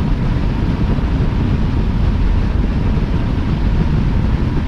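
Steady road and wind noise of a car travelling at highway speed.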